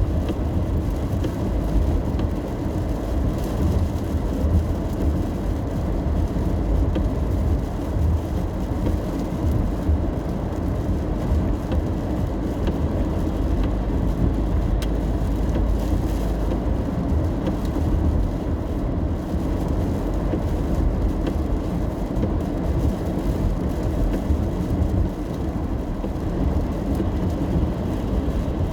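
Steady low rumble of a car in motion, heard from inside the cabin: tyre and road noise with the engine underneath, on a wet road in the rain. The sound holds even, with no sudden events.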